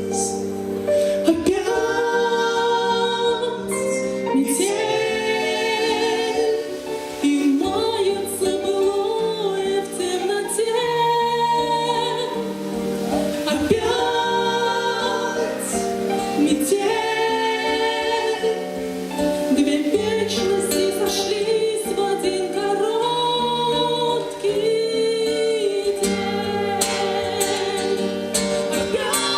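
A song: a woman's voice singing over electronic keyboard accompaniment.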